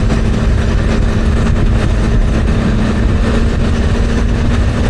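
Motorcycle cruising at a steady highway speed: a constant engine drone with an even hum under a continuous rush of road and wind noise.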